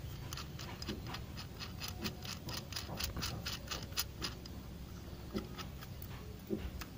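Light metallic clicks and ticks, several a second and busiest in the middle, from rear disc-brake parts and tools being handled as the brake is reassembled.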